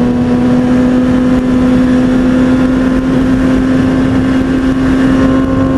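2003 Kawasaki ZX-6R 636's inline-four engine running at steady high revs under way, its pitch creeping slightly upward, over a rush of wind and road noise.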